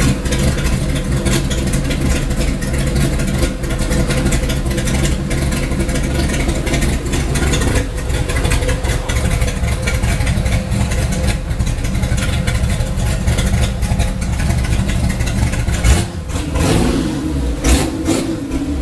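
Modified Chevrolet Opala's engine idling steadily, its low exhaust note shifting about halfway through and changing again in the last few seconds.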